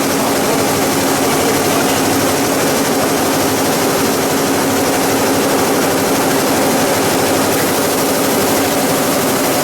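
Plastic pelletizing line machinery running in a factory: a loud, steady mechanical din with a constant hum that does not change.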